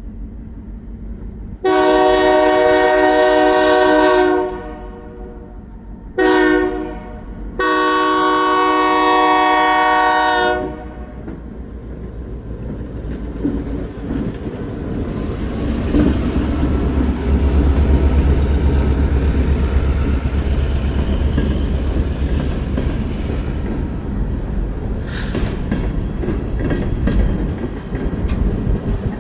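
Diesel freight locomotive horn sounding three blasts, long, short, long, then the train getting under way: a low engine rumble and the clickety-clack of rail cars, growing louder from about halfway through, with a brief sharp high sound near the end.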